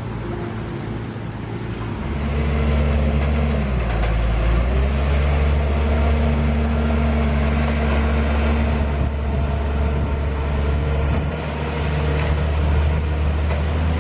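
T-150K tractor's diesel engine running, its note getting louder about two seconds in, dipping briefly around four seconds, then holding steady.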